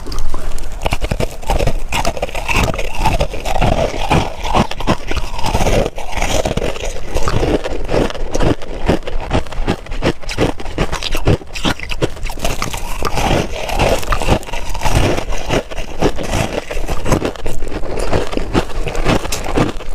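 Crushed ice being chewed close to the microphone: a rapid, irregular run of loud crunches and cracks without a break.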